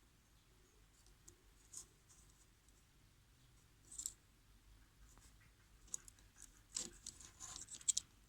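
Mostly near silence with faint, scattered short clicks and taps. One comes about four seconds in, and they grow more frequent near the end.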